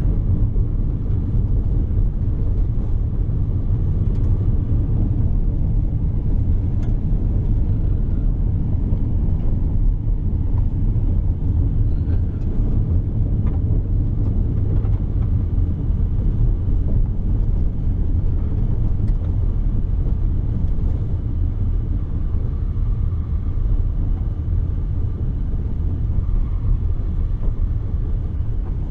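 Steady low rumble of road and engine noise from a vehicle driving along, heard from inside the cabin.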